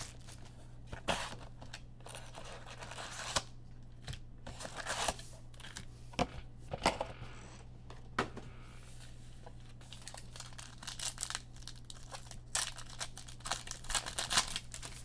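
Trading-card pack wrappers being torn open and crinkled in short irregular rips and rustles, over a steady low hum.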